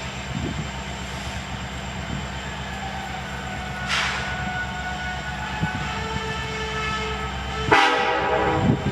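Diesel locomotive engine running steadily, with its air horn sounding: faint horn tones come in about halfway, then a loud horn blast near the end.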